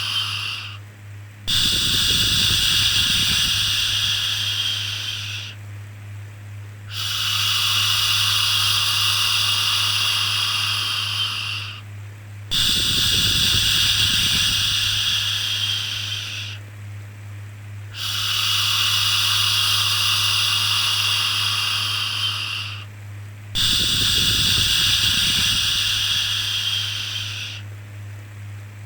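A long shushing 'shhh' repeated about every five and a half seconds, five times, each held for four to five seconds with a short break between. A steady low hum runs underneath.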